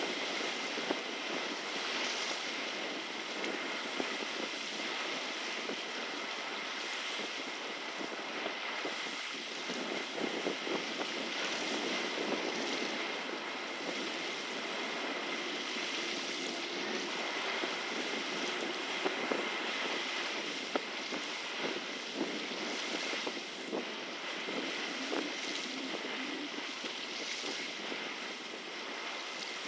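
Steady rush of moving water with wind buffeting the microphone, broken by scattered small splashes and knocks, under a faint steady high whine.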